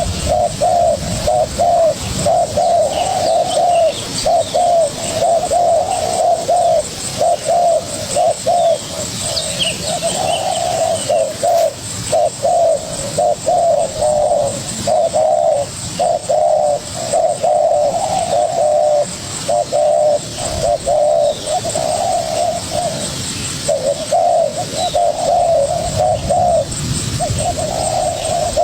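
Spotted doves cooing over and over with hardly a pause: a young wild-caught dove calling back at a decoy dove in a territorial duel. Faint high chirps of small birds sound behind.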